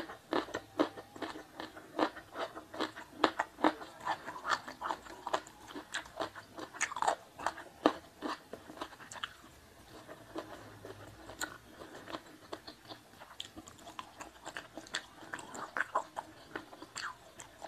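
Close-miked chewing of battered sweet-and-sour fish with rice: quick, irregular wet crunches and mouth clicks, thinning out for a few seconds midway before picking up again.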